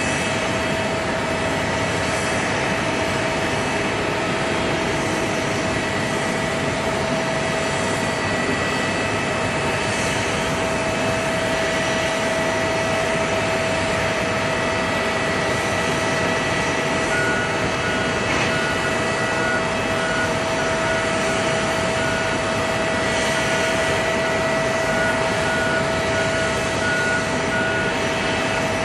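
Jet airliner engines running steadily at low power: a constant whine over an even rush of noise. About halfway through, a faint, evenly repeating beep starts up and keeps going.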